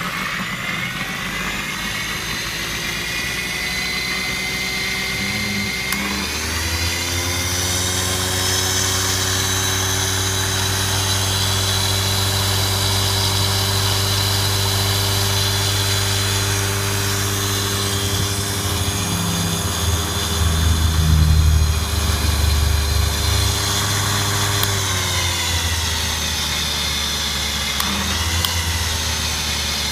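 Sherline mini lathe's motor and spindle running with a steady whine on the faster belt setting. About six seconds in, the variable speed control is turned up and the pitch rises. It holds there, then falls as the speed is turned back down a few seconds before the end.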